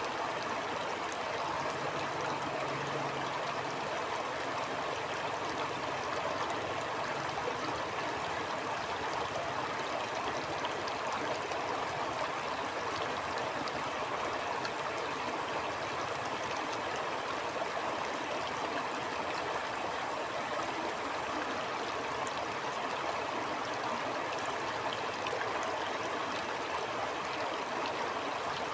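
A stream flowing steadily, its water rushing and splashing in an even, unbroken wash with a few small splashes on top.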